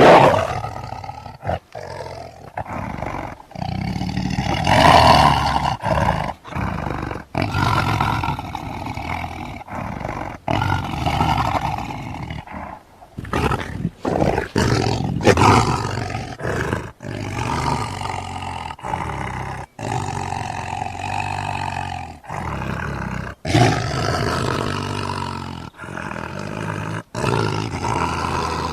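Smilodon sound effects: a string of big-cat roars and growls, one call after another with short breaks between them, the loudest near the start and around the middle.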